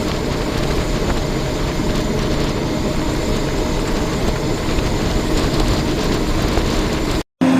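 Steady heavy diesel rumble of large farm machinery running, with a faint whine over it. It cuts off abruptly near the end.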